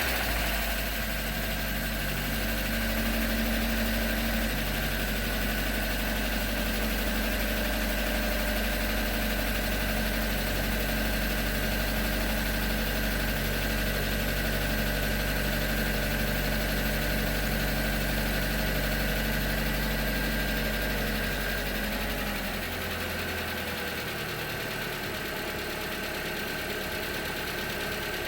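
2019 Hyundai Tucson's 2.0L Nu inline-four idling steadily just after a cold start, with the odd start-up noise that the owner wonders may be knock or piston slap. About 22 seconds in, the fast cold idle drops to a lower, quieter idle.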